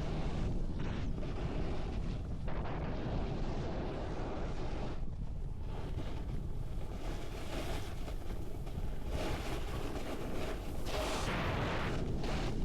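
Wind buffeting the microphone of a camera carried down a snowboard run: a constant low rumble with swells of hiss that rise and fall, strongest near the end.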